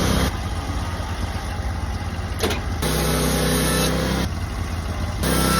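Sawmill's engine running steadily while the mill squares up an old cedar beam. The sound shifts abruptly in pitch and level a few times.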